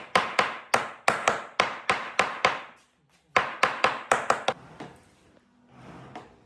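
Hammer blows on wood in quick, even strokes, about three a second, pausing briefly about three seconds in, then a faster run that stops about four and a half seconds in.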